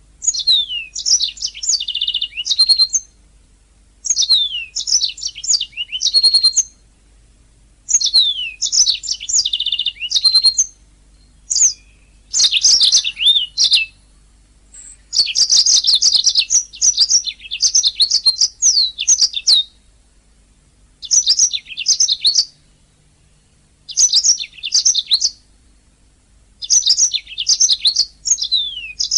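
Domestic canary singing: bursts of fast, high trills and rapid sweeping notes lasting a few seconds each, broken by short pauses.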